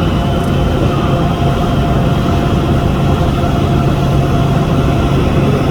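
Boat's engine running steadily: a loud, constant low drone with an unchanging hum and a faint steady whine above it.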